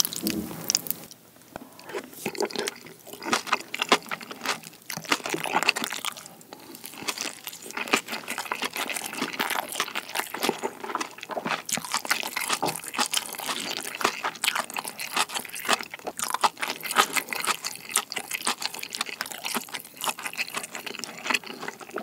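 Close-miked chewing of a mouthful of kimchi pizza tangsuyuk, saucy fried pork with kimchi, olives and vegetables. Wet, sticky mouth sounds are mixed with a steady run of small crunches and clicks, the crisp crunching of the vegetables along with the batter.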